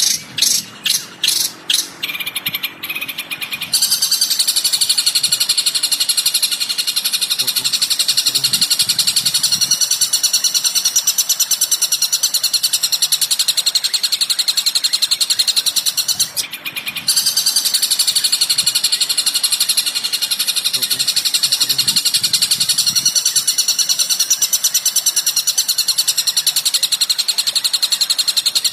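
Recorded songbird calls played as masteran training audio. A few separate quick chirps come first, then a fast, unbroken high-pitched chatter of rapid notes begins about four seconds in. The chatter breaks off briefly about halfway through and then resumes.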